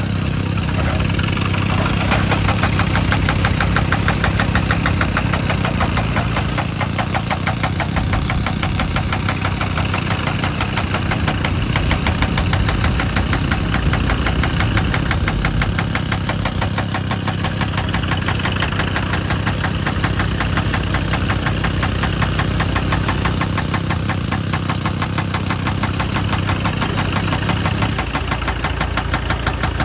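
Excavator-mounted hydraulic rock breaker hammering rock in a rapid, even train of blows over the running diesel engine of a JCB excavator. The low engine drone drops away near the end.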